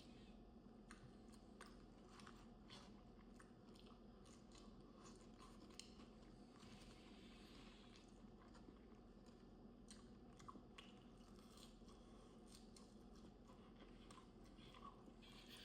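Faint close-up chewing of fried potato wedges, with soft crunches and scattered short mouth clicks over a low steady hum.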